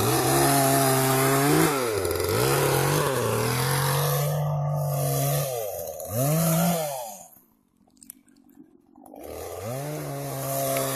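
Chainsaw engine revving up and dropping back several times while cutting up a fallen tree. It goes silent for about two seconds, then runs again at a steady idle.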